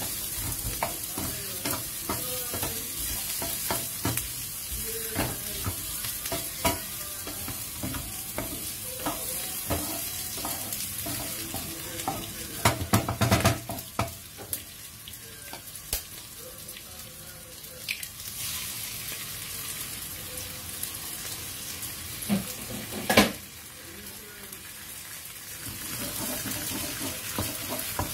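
Garlic, onion and red chillies sizzling in oil in a non-stick frying pan, stirred with a wooden spatula that taps and scrapes against the pan. A cluster of louder knocks comes about halfway through and one sharp knock later, and the sizzling grows louder near the end.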